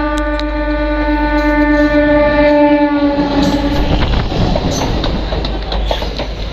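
Indian Railways MEMU local passenger train sounding one long horn blast, a single steady tone that sags slightly in pitch and stops about four seconds in. Then the coaches roll past close by, with the wheels clattering over the rail joints.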